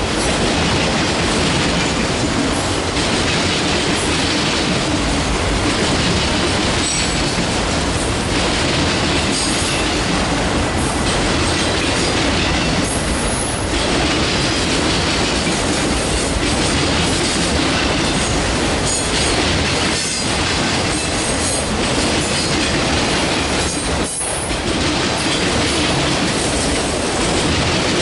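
Freight train's cars rolling past at speed: steady wheel rumble and clickety-clack over the rail joints, with brief high wheel squeals now and then.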